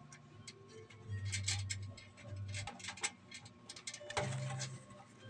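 Irregular light clicks and ticks of small plastic connectors and wires being handled, as front-panel header leads are pushed onto a motherboard's pins. A faint low hum comes and goes twice.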